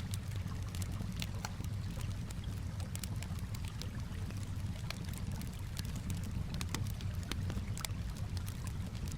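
Campfire crackling with frequent irregular sharp pops and snaps, over a steady low wash of calm water lapping.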